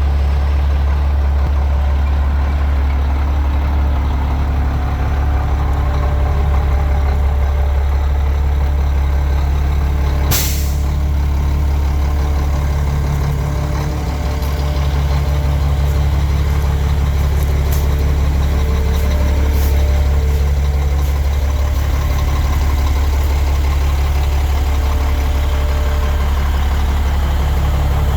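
Renault Magnum 440 truck's inline-six diesel engine idling steadily, with one short sharp hiss about ten seconds in.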